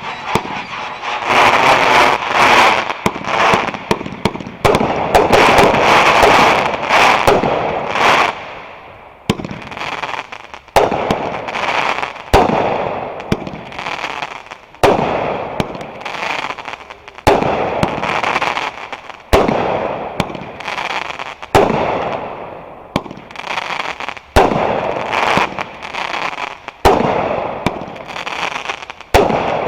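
Fireworks going off: a dense crackling barrage for about the first eight seconds, then a string of sharp bangs roughly once a second, each followed by a fading crackle.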